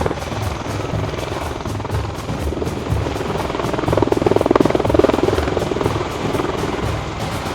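Rotor chop of low-flying military rotorcraft, a fast even beat that swells louder about four to five seconds in as one passes close. Background music plays alongside.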